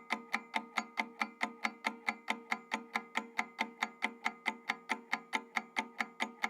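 Timer ticking sound effect: steady, even ticks, about five a second.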